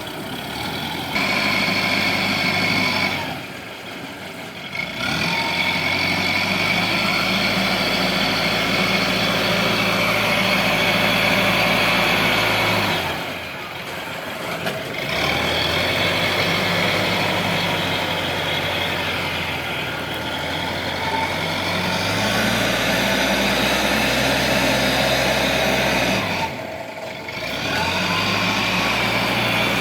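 Diesel engine running steadily. Its sound drops away briefly three times, about eleven seconds apart, then comes back each time.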